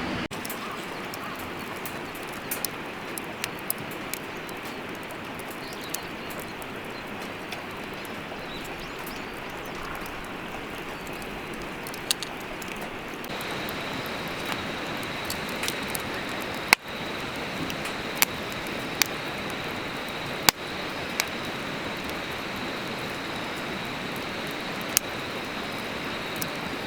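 Firewood burning in a fire pit: a steady hiss with scattered sharp crackles and pops, a few of them louder.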